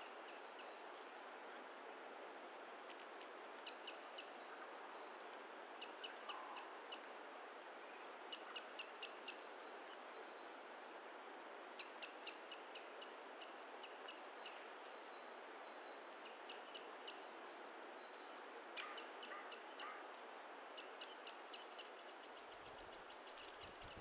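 Small bird calling outdoors: short rapid series of high notes, repeated every couple of seconds over a faint steady hiss.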